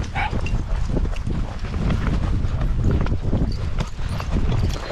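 Walking footsteps with a continuous low rumble and irregular knocks of movement, as heard through a body-worn action camera.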